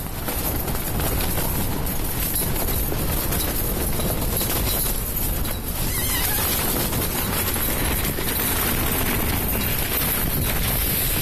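Strong wind buffeting a phone's microphone: steady, loud rushing noise across all pitches, with gusts.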